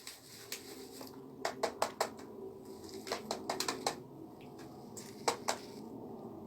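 A series of sharp clicks or taps in short irregular clusters: one about half a second in, a quick run of four around one and a half to two seconds, a faster run of six around three to four seconds, and a pair near the five-second mark.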